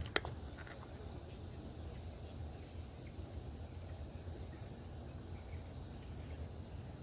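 Steady low outdoor rumble of the riverside with a thin, steady high-pitched hum, broken by one sharp click just after the start and a couple of faint ticks within the first second.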